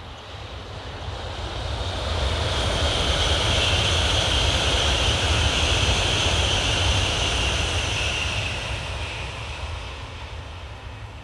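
N700A Shinkansen bullet train passing at high speed. A rushing noise with a high hiss and a low rumble builds over about two seconds, stays loud for about six, then fades away as the train recedes.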